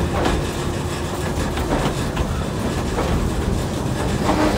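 Narrow-gauge passenger train car rolling along the track: a steady low rumble with irregular clacks from the wheels on the rails.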